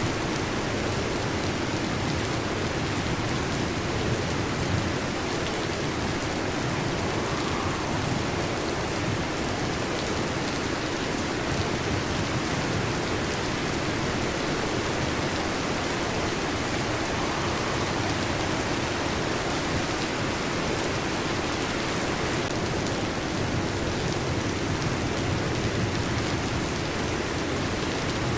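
Heavy rain pattering steadily on a metal roof, a dense unbroken hiss of drops with no distinct thunderclap.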